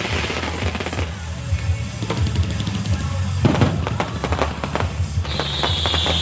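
Firecrackers going off in rapid crackling bursts over music with drums. About five seconds in, a high steady whistle starts and holds.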